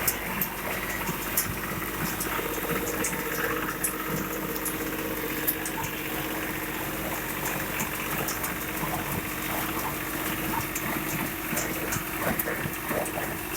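Deutz-Fahr Agromaxx 55 tractor running steadily, a constant engine hum with frequent sharp clicks and rattles over it.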